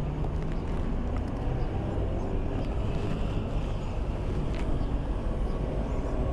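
Kawasaki Z900 SE's inline-four engine running steadily with an even low drone.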